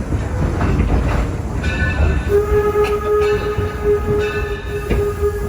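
Excursion train rolling with a low rumble; about two seconds in, the locomotive's steam whistle starts one long, steady blast.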